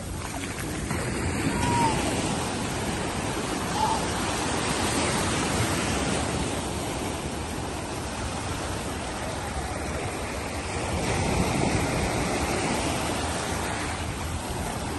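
Sea waves and surf rushing steadily around a small raft out at sea.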